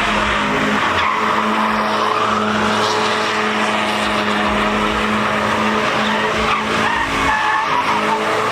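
Chevrolet Camaro spinning its tyres in a sideshow stunt: the engine is held at high, steady revs under a continuous tyre squeal.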